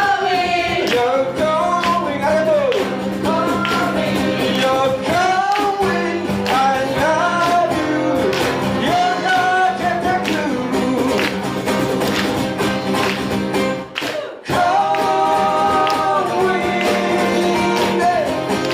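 Live band playing a song: guitar chords under a gliding melody line. The sound cuts out suddenly for a moment about fourteen seconds in, then carries on.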